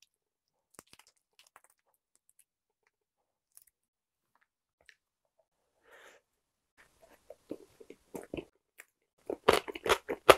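Close-miked bite into a soft bread roll filled with potato salad, about six seconds in, followed by chewing. The chewing starts faint and becomes loud and rapid near the end.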